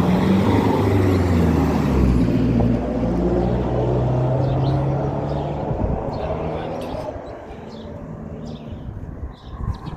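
A motor vehicle's engine running close by, then fading away over the second half as it moves off.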